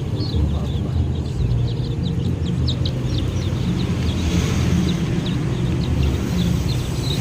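A mass of day-old free-range chicks peeping: many short, high chirps overlapping in quick succession, over a steady low rumble.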